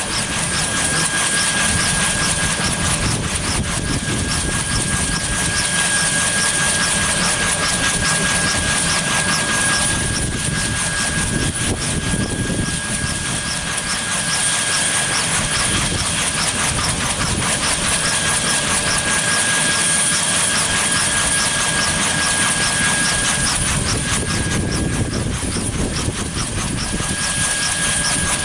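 Kaman K-MAX helicopter's turboshaft engine running steadily, with a high turbine whine over a fast, even pulsing from its turning rotors.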